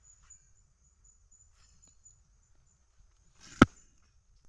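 Faint, steady high-pitched insect chirring, broken about three and a half seconds in by one sharp click.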